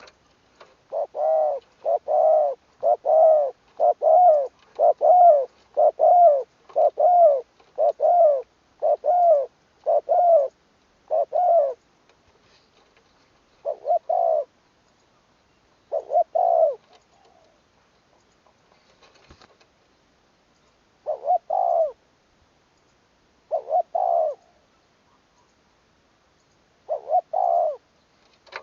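Spotted dove cooing: a quick run of about a dozen coos, roughly one a second, then slower coos in ones and pairs spaced several seconds apart.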